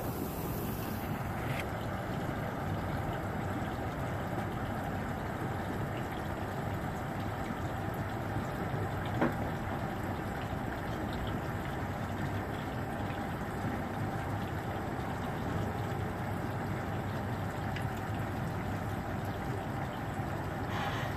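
An engine running steadily at a low rumble, with a single short click about nine seconds in.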